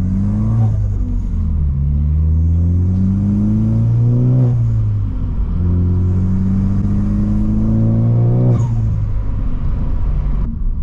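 Tuned turbocharged Ford Focus ST accelerating hard through the gears. The engine note climbs in pitch and drops sharply at each of three upshifts, about four seconds apart.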